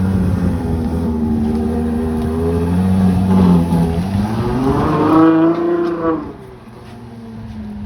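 Ferrari 812 Competizione's V12 running at a fast cold-start idle, its revs swelling and sagging, then climbing for about a second. About six seconds in the sound drops suddenly quieter and settles to a lower, steadier idle.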